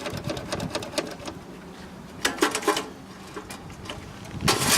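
An engine being cranked over with a rapid, even ticking, getting close to catching but not yet running.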